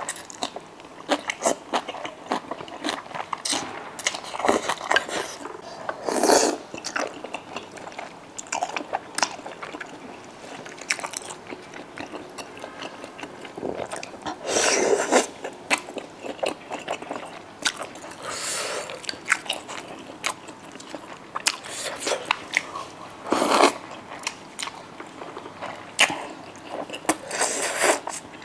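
Close-miked eating of spicy malatang with rice: chewing, biting and wet mouth smacks, with many small clicks and a few louder bites spread through.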